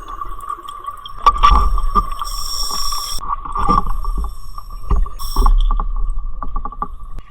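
Underwater scuba breathing through a regulator: two hissing inhales, each followed by a low rumble of exhaled bubbles, with a steady high hum throughout.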